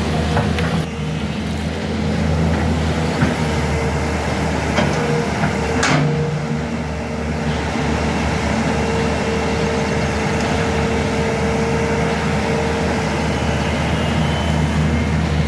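Sany SY210C-9 hydraulic excavator's diesel engine running steadily under load with a steady hydraulic whine, and a few sharp knocks, the loudest about six seconds in.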